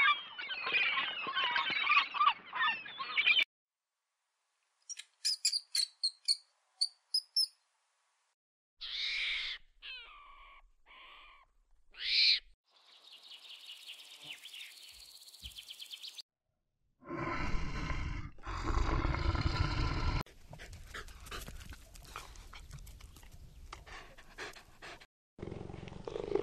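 A string of separate animal-call clips with silent gaps between them. A flock of gulls calls for the first few seconds, then come short bird chirps and other calls, and about two thirds of the way through a louder, heavier animal sound with a deep low end.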